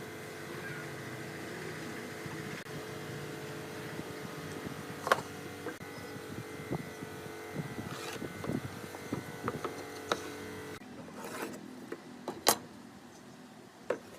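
A steady machine hum that cuts off about 11 seconds in, with scattered sharp knocks and clicks from handling and working wood, the loudest about 5 and 12.5 seconds in.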